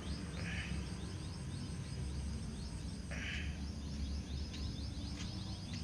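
Rural outdoor background: a steady low rumble with faint, rapidly repeated high chirps throughout. Two short hissing bursts come through it, one near the start and one about three seconds in.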